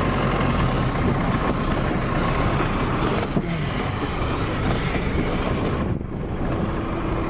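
Truck under way in traffic: steady engine and road noise, with a steady tone coming in near the end.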